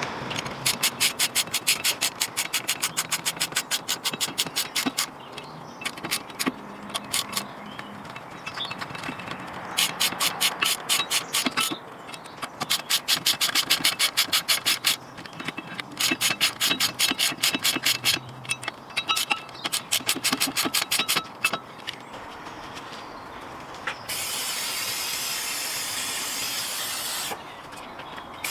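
Hand-tool work on a van's front brakes: several bursts of rapid, evenly spaced clicking, then about three seconds of steady hiss near the end.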